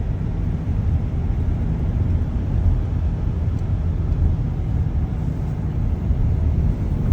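Car driving slowly on a snow-covered road: a steady low rumble of engine and tyre noise.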